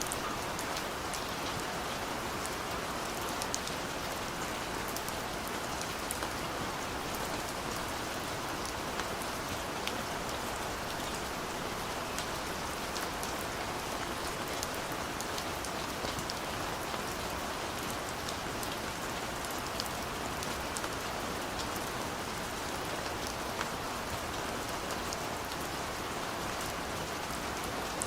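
Steady, even rain falling on a surface, with fine scattered drop ticks over a continuous hiss.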